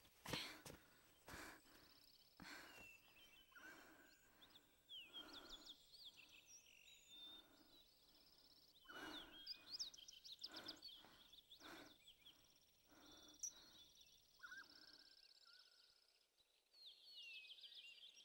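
Faint outdoor ambience: scattered high bird chirps with soft, irregular thuds about once a second, very quiet overall.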